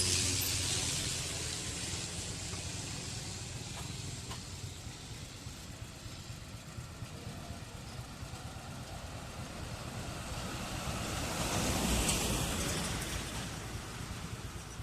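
Twin Otter's turboprop engines heard at a distance after landing: a steady rushing noise, fading early on, that swells and falls back near the end.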